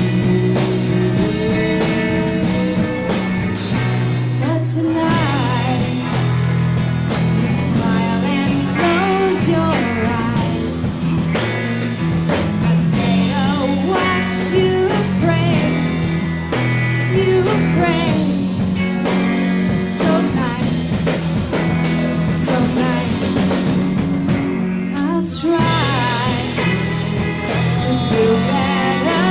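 Rock band playing live: electric guitar, bass and drums, with steady cymbal and drum hits throughout.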